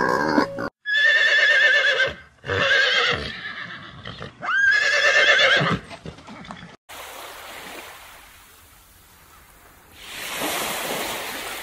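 A horse whinnying three times, each call long with a shaky, wavering pitch. Near the end comes a steady rushing hiss.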